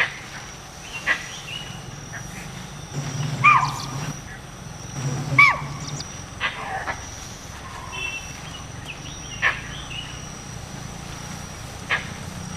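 Short wild animal calls. The two loudest are about two seconds apart and each falls in pitch, with several sharper short calls scattered around them, over a steady high whine and a low steady hum.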